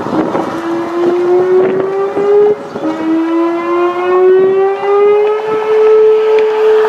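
Outdoor tornado warning siren wailing: one loud tone that slowly rises in pitch, drops back about three seconds in and climbs again, over a rush of wind noise.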